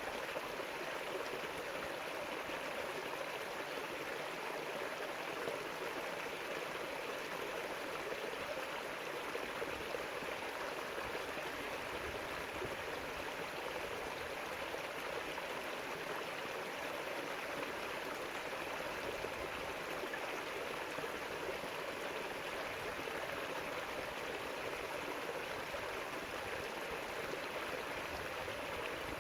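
A river running: a steady, even rush of flowing water over stones, with no changes.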